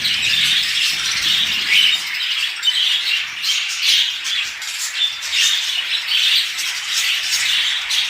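A flock of caged budgerigars chattering, many short high chirps and squawks overlapping without a break.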